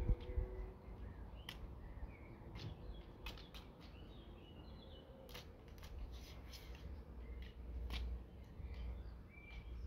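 Campfire crackling with scattered sharp pops, a few short bird chirps, and a low rumble beneath.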